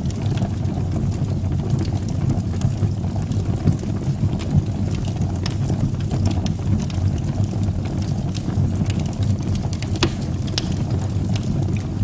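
Wood fire burning in a fireplace: a steady low rumble of the flames with scattered crackles and pops, two sharper pops about ten seconds in.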